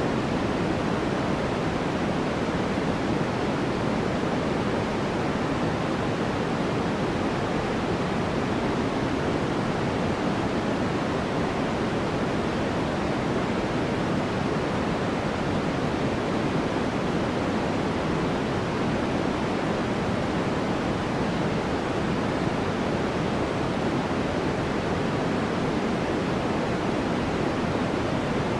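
Steady white noise for sleep: an even, unchanging rush with no breaks, weighted toward the lower tones, so it sounds deeper than a thin hiss.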